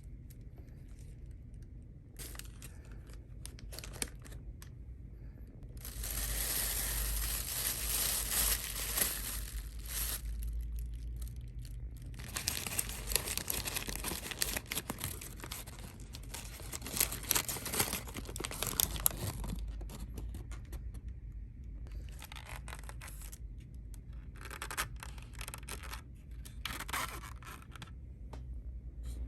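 Packaging being torn and crinkled by hand, in several long stretches of rustling and tearing with short pauses between.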